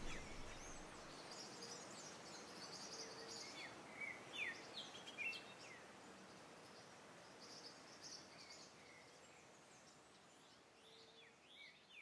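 Faint birdsong: scattered short chirps and quick falling whistles, bunched about four to five seconds in and again near the end, over faint steady background noise.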